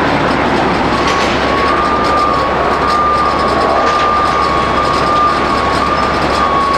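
Jet airliner engines close by: a loud, steady rush of noise with a thin high whine that comes in about a second in and wavers slightly in pitch.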